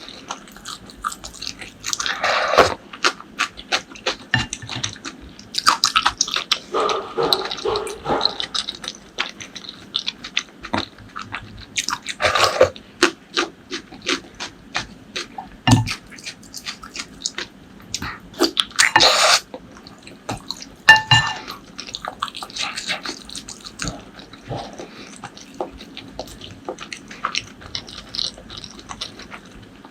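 Close-miked eating: wet chewing with a dense run of mouth clicks and smacks. A few louder slurps, about two seconds in, near twelve seconds and near nineteen seconds.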